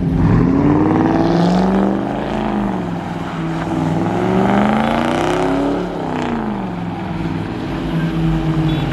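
Car engine revving hard, its pitch climbing and falling several times; it peaks and drops sharply about six seconds in, then holds steadier near the end.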